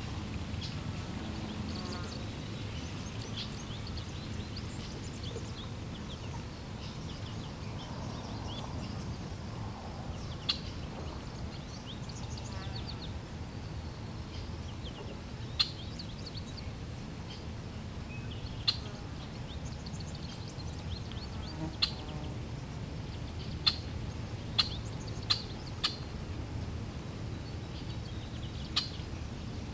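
Flowing water making a steady low rush, with small birds chirping over it. Short, sharp single calls ring out now and then, more often in the second half.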